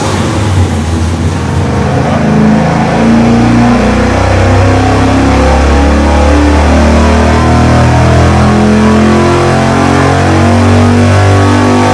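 A big-block Chevy 454 V8 running at wide-open throttle on an engine dyno during a power pull toward 6,700 rpm.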